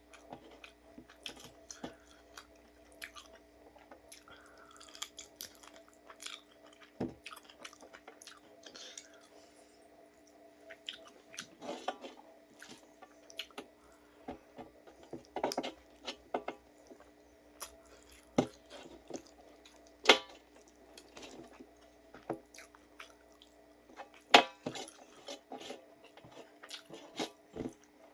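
A person eating chilli chicken: chewing and biting with irregular wet mouth clicks and small crunches, over a faint steady hum.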